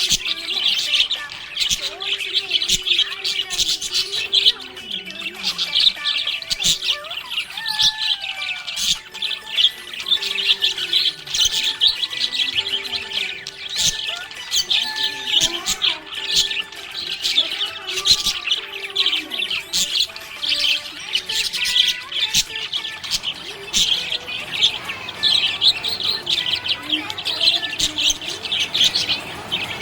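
Budgerigar chirping and chattering without pause: a dense run of sharp, high chirps mixed with lower, gliding warbled notes. This is the contented chatter of a happy budgie.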